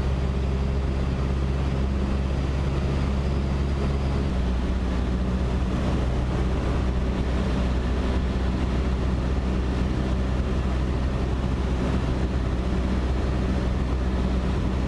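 Cessna 152's four-cylinder Lycoming engine and propeller droning steadily in the cockpit during the approach, the engine note shifting slightly about four seconds in.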